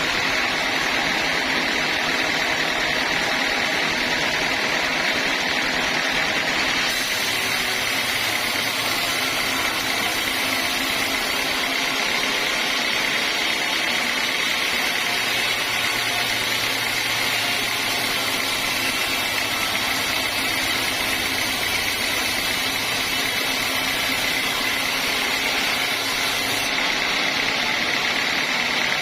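Homemade band sawmill running steadily, a continuous machine noise with a steady high whine that gets brighter about seven seconds in and settles back near the end.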